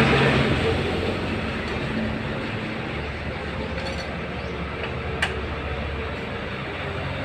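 Steady mechanical rumble and hum, easing off slightly in the first second, with one sharp click about five seconds in.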